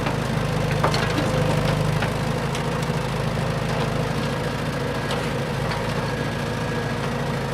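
Radio-controlled dump truck's motor running with a steady hum, with a few faint ticks scattered through it.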